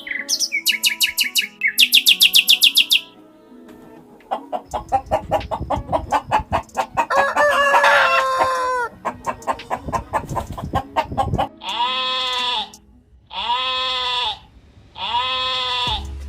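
A small bird chirping in quick high runs. Then chickens clucking rapidly, with a rooster crowing partway through. From about twelve seconds in, an animal gives a series of long bleats, about one a second and a half.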